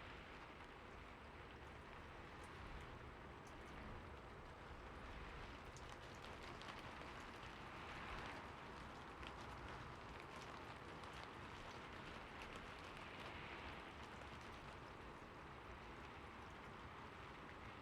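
Soft, steady rain, faint, with scattered drops ticking and the hiss swelling gently every few seconds.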